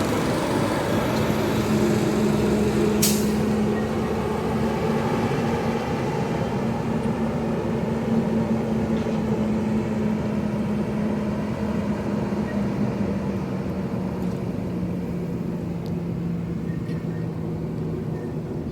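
Garbage truck engine running steadily, with one short sharp hiss of its air brakes about three seconds in; the engine's tone sinks slightly and fades a little toward the end.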